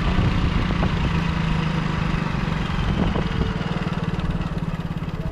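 Motorcycle engine running at low revs, a steady even beat of firing pulses that eases off slightly about halfway through.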